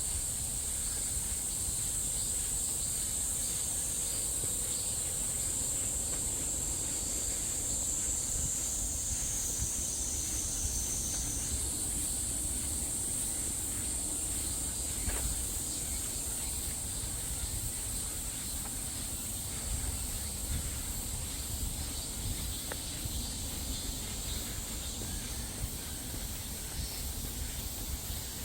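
Insects buzzing in chorus, a steady high-pitched drone that shifts pitch slightly partway through, over a low rumble.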